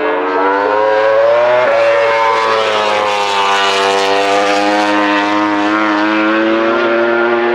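MotoGP racing motorcycle's 1000 cc four-cylinder engine accelerating hard. The pitch climbs, drops in one quick upshift about two seconds in, then climbs steadily again.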